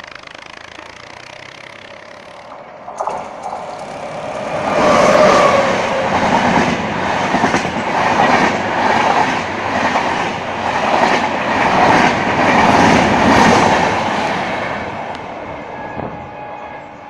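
Double-decker express train hauled by a WAP-7 electric locomotive running through a station at speed. The rush of the approaching train swells after about four seconds into a loud passage of wheels, with an even clickety-clack of the coaches' wheels over the rail joints, about one and a half beats a second, then fades as the train draws away near the end.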